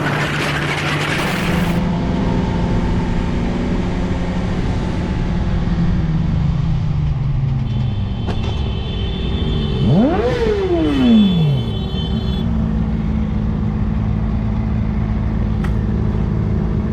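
Motorcycle engine running while riding, with a quick rev that rises and falls about ten seconds in. A high steady tone is heard alongside it for a few seconds around the rev.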